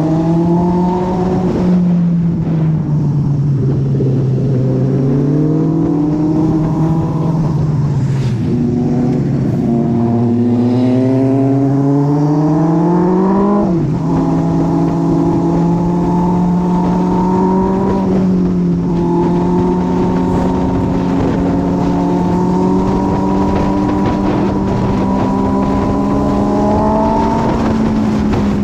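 Motorcycle engine running while the bike is ridden, its pitch rising and falling with the throttle and climbing under acceleration until a sudden drop at an upshift about 14 seconds in, then holding steady at a cruise. Wind and road noise run underneath.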